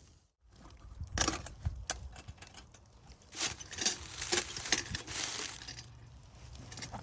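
Crunching and crackling sounds in two bouts, a short one about a second in and a longer, denser one in the middle, like something being handled or stepped on.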